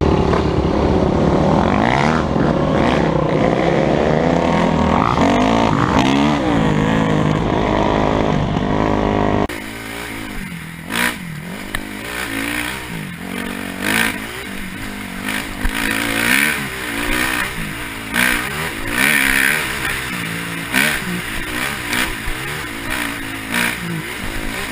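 Dirt bike engine running hard with its pitch shifting through the revs. About nine and a half seconds in, the sound cuts abruptly to a quieter dirt bike engine revving up and down again and again, with scattered clattering.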